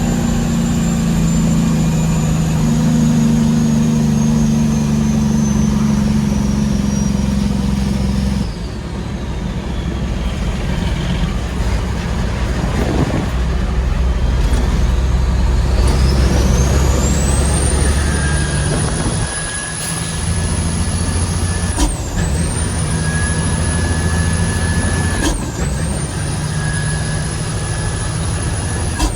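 Heavy diesel truck engine pulling on the road, its note dropping about a third of the way in. A turbo whistle then climbs to a high, steady whine and dips sharply twice near the end, as at gear changes.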